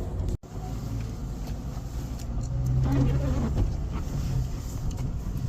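Tow truck driving: a steady low engine drone with road noise, which swells slightly midway. It breaks off for an instant just after the start.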